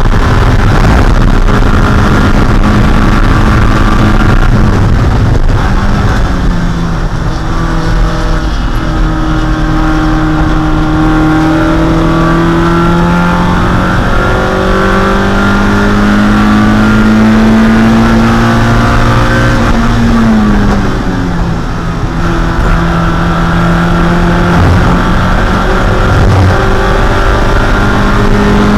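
Spec Miata's 1.6-litre four-cylinder engine running hard under race load, its pitch climbing slowly over long stretches. About twenty seconds in the pitch drops sharply and the sound dips briefly, then it climbs again.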